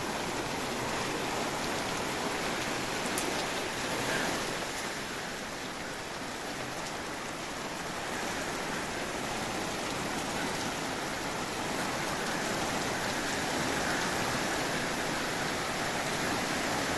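Heavy rain pouring down steadily: a continuous, even hiss of rain hitting the ground and surfaces.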